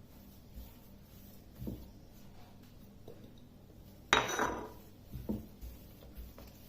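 Kitchenware being handled on a work surface: a few soft knocks, then about four seconds in a sharp clatter with a brief ring, and one more knock a second later.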